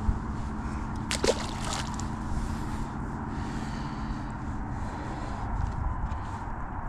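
Small wind-driven waves lapping and sloshing at the shore, with wind rumbling on the microphone. A few short clicks come about a second in.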